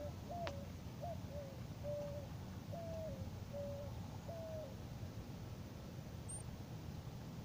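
A bird calling: a string of about eight short, low hooting notes, several dropping in pitch at their ends, over the first four and a half seconds, above a faint steady low rumble.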